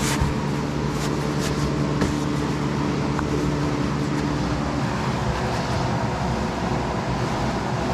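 A steady mechanical hum with a few light clicks.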